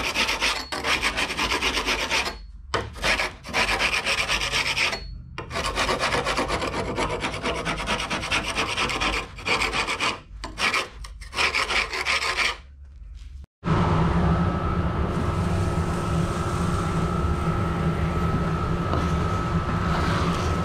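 A hand scraper is scraping old carpet off an aluminum boat hatch lid in repeated rasping strokes, with short pauses between runs. About two-thirds of the way in it cuts off abruptly and a steady mechanical drone with a constant whine takes over.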